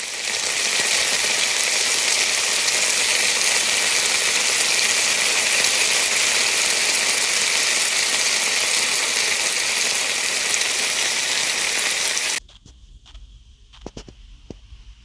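Steady loud hiss that starts abruptly and cuts off suddenly about twelve seconds in, followed by a few faint clicks.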